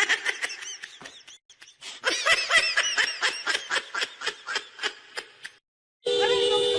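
High-pitched laughter: a quick run of short ha-ha pulses, about five a second, that gradually fades out.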